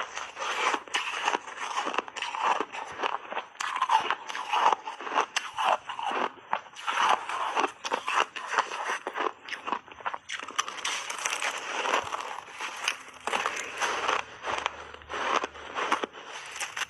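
A block of refrozen mixed-berry ice being bitten and chewed: a dense, irregular run of cracks and crunches that goes on without a break.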